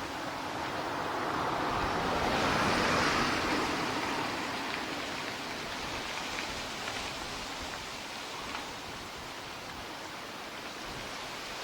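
Rushing jet aircraft noise that swells to its loudest about three seconds in, then slowly fades to a steady hiss.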